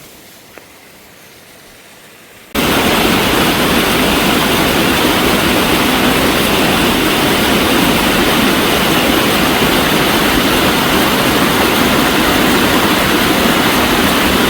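Faint stream flow, then about two and a half seconds in a sudden switch to loud, steady rushing water, like a waterfall or torrent close to the microphone.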